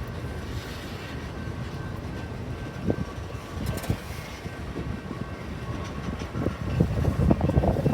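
Train rolling past on the rails: a steady low rumble with irregular knocks from the wheels, growing louder and busier near the end.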